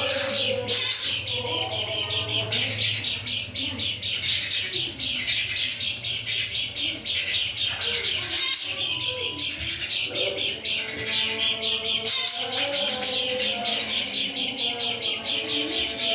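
Kecial kuning songbirds singing: a dense, continuous stream of rapid high chirps and twitters, with lower warbling notes running underneath.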